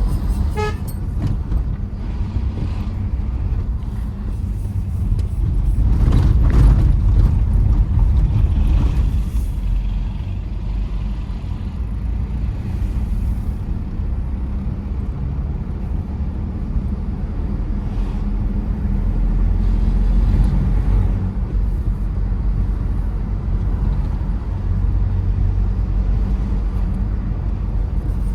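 Tata Safari Storme diesel SUV driving, a steady low engine and road rumble that swells louder twice. A car horn toots briefly about half a second in.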